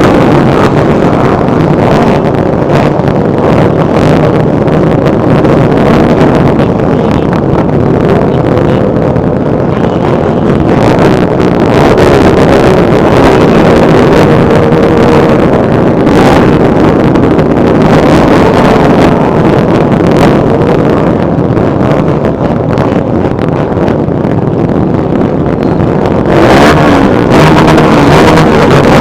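Motorcycle engines running steadily in a procession, with wind buffeting the microphone.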